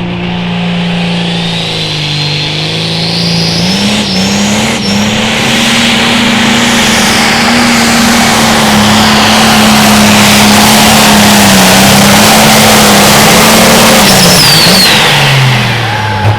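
John Deere Limited Pro Stock pulling tractor's turbocharged diesel engine at full power during a pull. The engine note climbs a few seconds in and holds high under load, then falls away near the end as the run finishes.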